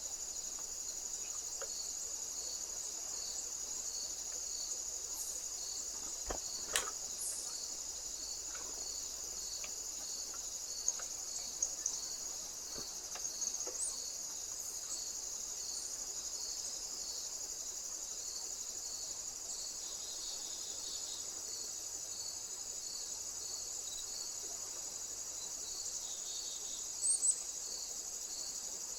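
Crickets stridulating: a steady high-pitched trill with a second chirp pulsing regularly beneath it, a little faster than once a second. A sharp click sounds about a quarter of the way in, and two brief high chirps come near the end.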